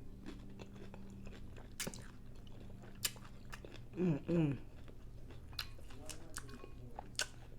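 Close-up chewing and biting with crisp crunches and wet mouth clicks: a crunchy taco boat shell being eaten. A short two-note hum of the voice comes about four seconds in.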